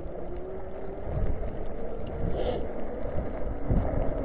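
Ecotric 500-watt fat-tire electric bike riding through snow: steady tyre and ride noise with low rumbles, and a faint steady whine from the electric motor.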